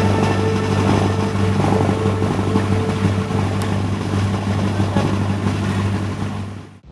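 Tour boat's engine running steadily under way, a constant low hum over a rushing noise; it cuts off suddenly near the end.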